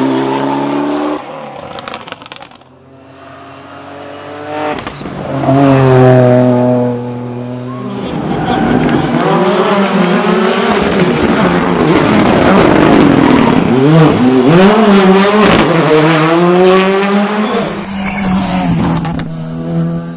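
Rally2 rally car's turbocharged four-cylinder engine revving hard. The note rises and falls repeatedly through gear changes and lifts, dipping about two seconds in and climbing again loudly through the middle.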